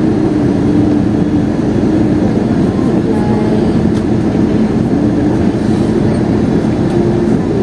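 Steady cabin rumble inside an Airbus A321 in flight or on landing: engine and airflow noise, even and low-pitched, with no distinct events.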